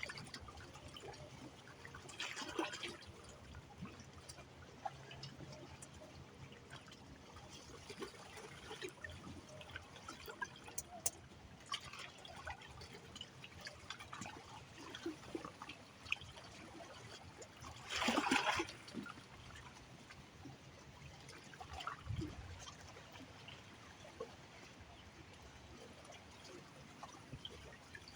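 Shallow water lapping and trickling at the edge of the Indian River where it meets the ocean, with scattered small splashes and two louder washes of water, the louder one about 18 seconds in.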